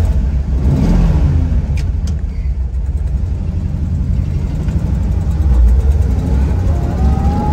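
Dodge Challenger's 426 Hemi V8 running just after starting, heard through a stock-style exhaust and mufflers. A deep, steady rumble, with a brief rise and fall in pitch about a second in, then settling into a steady idle.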